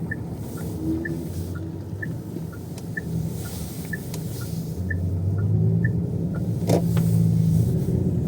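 A car's turn-signal indicator ticking, two alternating clicks about twice a second, over the low engine and road noise inside the cabin. The engine grows louder about five seconds in as the car moves off.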